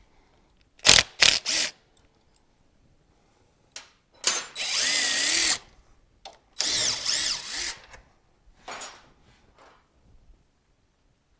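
Electric power drill motor running in several short bursts, its whine rising and falling in pitch as the trigger is eased on and off.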